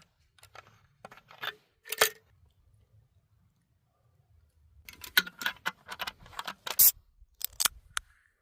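Close clicks and clinks of small hard objects being handled: a few strokes in the first two seconds, then a quicker flurry of them from about five seconds to near the end.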